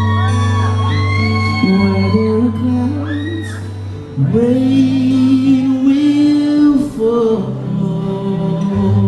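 Live band performance with a sung vocal line holding and bending long notes over a steady bass, echoing in a large hall.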